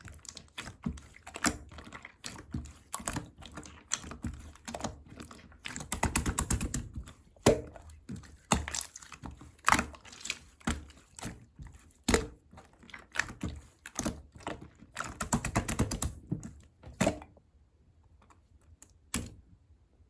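Irregular clicking and tapping like typing on a computer keyboard, with quick runs of keystrokes about six and fifteen seconds in, then a near-quiet stretch broken by a single click near the end.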